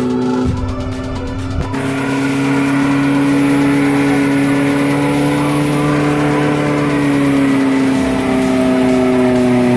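Suzuki Katana's small four-cylinder engine held at high revs under load, its pitch steady, rising slightly about two-thirds through and easing back. A brief low buffeting on the microphone comes in the first two seconds.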